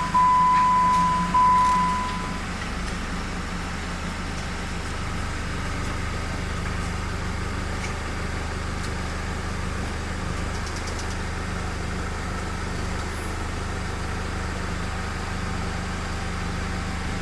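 Jeep Wrangler engine idling steadily. A high electronic beep sounds in long pulses and stops about two seconds in.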